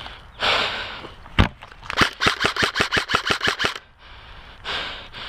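An airsoft gun fires a single shot, then a rapid burst of about fifteen shots at roughly eight a second, lasting just under two seconds.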